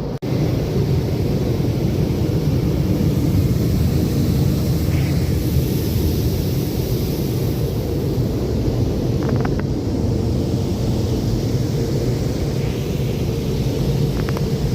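Automatic car wash machinery running around the car, heard from inside the cabin: a steady loud rushing noise over a deep rumble.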